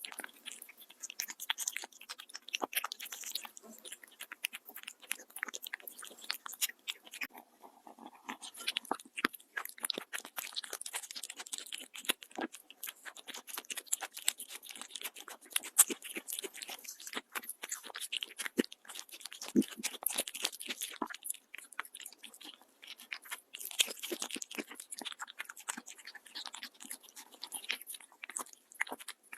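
Cat chewing and biting through food, a continuous run of crunches with a brief pause about seven seconds in.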